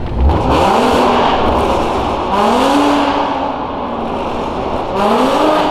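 Car engine revving hard three times, each rev rising in pitch and then holding briefly before easing off.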